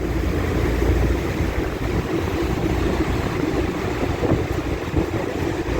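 Steady rumble of a tour boat under way, with water rushing and wind buffeting the microphone.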